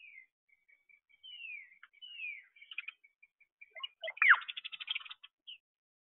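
Songbirds calling and singing: several short downward-slurred whistles, then a loud note sweeping sharply down in pitch about four seconds in, followed by a fast rattling run of notes.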